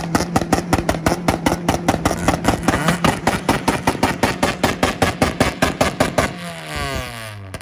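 A turbocharged car's engine held on a two-step rev limiter, firing a fast, even stutter of loud pops and bangs, about six or seven a second, at steady revs. Near the end it lets off and the revs fall away.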